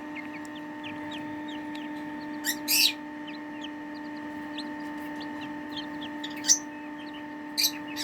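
Chicks in a brooder giving scattered soft peeps, with three brief louder sounds about a third of the way in, near two-thirds and near the end, over a steady electrical hum.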